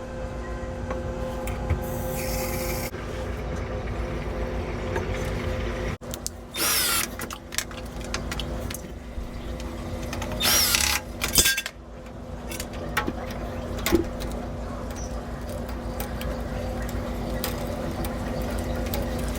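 A power drill whirring in a few short bursts, over a steady low hum.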